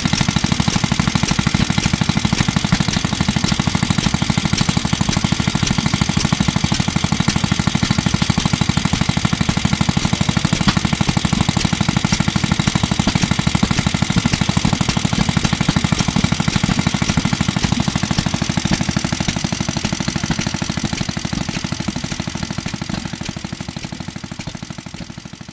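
Circa-1955 Clinton Model A-800 2.5 hp air-cooled single-cylinder engine running steadily with a fast, even firing beat, driving a small air compressor. It fades out over the last few seconds.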